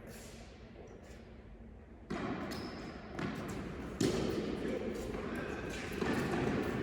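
Tennis ball being hit and bouncing on an indoor court, about four sharp strikes with echo off the hall, beginning about two seconds in.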